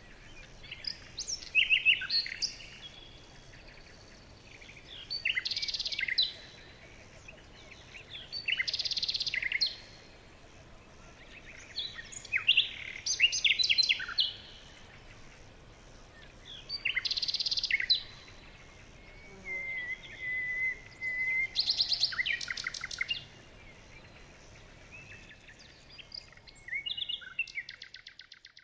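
Wild songbirds singing: short bursts of chirping song recurring every few seconds, with a held warbling note about two-thirds of the way through and a rapid trill near the end, over a faint steady hiss.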